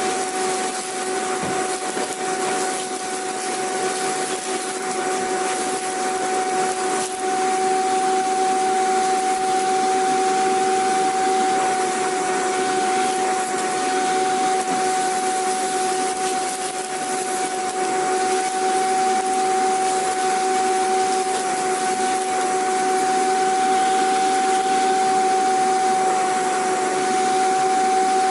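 Vacuum cleaner motor running steadily: a continuous airy rush carrying a constant high whine.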